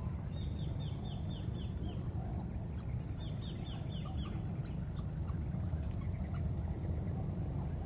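A small bird calling: two quick runs of five or six high, falling chirps, about three seconds apart. They sound over a steady high insect drone and a low outdoor rumble.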